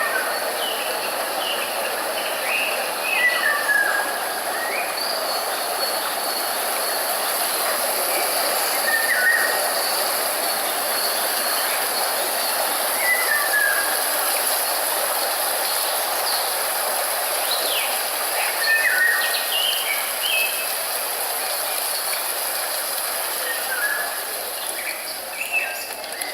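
Short bird chirps and calls every few seconds over a steady outdoor rushing noise.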